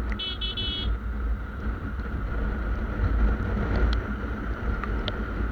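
Motorcycle running on the road with wind rumbling heavily on the microphone. A short high-pitched pulsing tone sounds about a quarter of a second in, lasting under a second.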